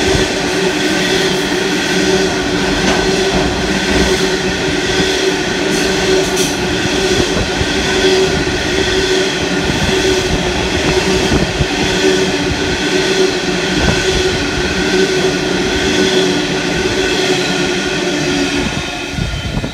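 Freight train of hopper wagons rolling past close by: a steady rumble of wheels on rail with several steady whining tones held over it. The level falls off near the end as the last wagons pass.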